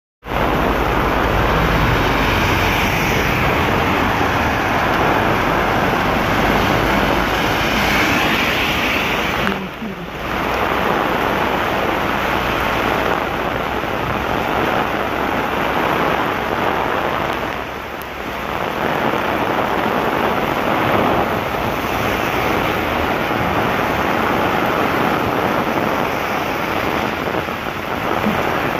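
Heavy monsoon rain pouring down steadily, a dense, even hiss that drops off briefly twice.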